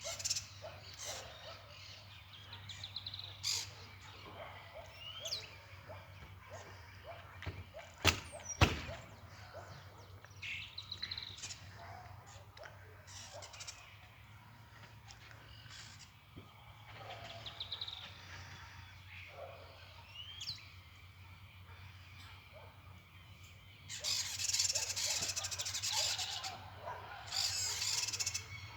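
Shiny cowbirds calling and singing: repeated bubbly gurgling phrases and thin rising whistles, over a low steady hum. Two sharp knocks about eight seconds in, and a louder dense hissing rush from about three-quarters of the way through to near the end.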